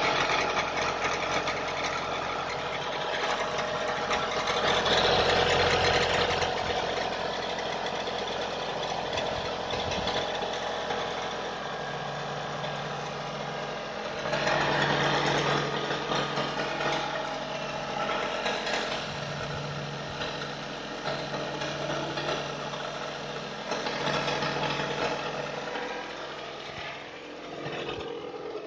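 Mitsubishi 4G69 2.4-litre inline-four engine running, with extraneous mechanical noises that are the fault being shown. It grows louder twice, around five and fifteen seconds in.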